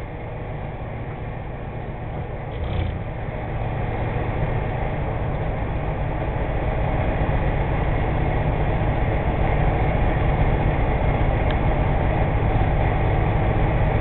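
Sicard snowblower's 335 Cummins diesel engine running steadily, growing louder over the first several seconds and then holding.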